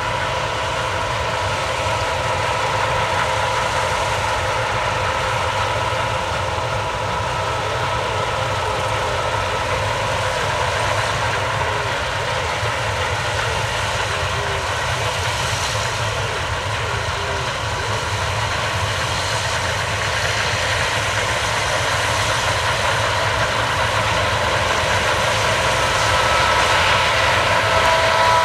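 Case combine harvester running steadily: a constant low engine drone with a few held whining tones from the machinery, growing slightly louder near the end.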